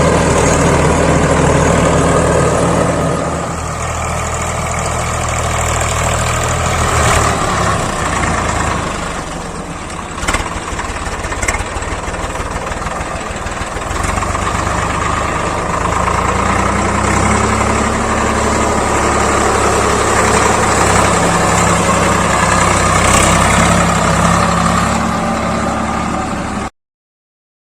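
Swaraj 855 FE tractor's diesel engine running steadily, going quieter and rougher for several seconds with a couple of sharp knocks, then steady again before the sound cuts off suddenly.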